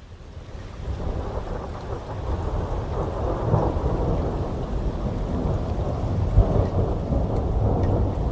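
Rolling thunder over heavy rain: a low rumble builds about a second in and keeps rolling, strongest in the second half, over steady rainfall.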